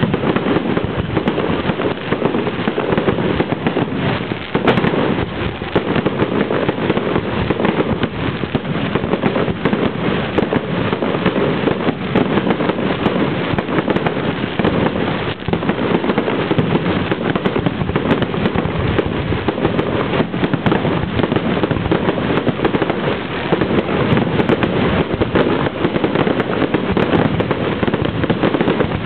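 Fireworks display going off without a break: a dense, steady barrage of bangs and crackling. It is recorded in low-quality camera audio that sounds dull, with no high end.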